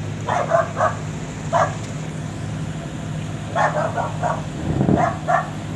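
A dog barking in quick runs of two or three short barks, about ten in all, over the steady low hum of a boat's engine running while the boat reverses.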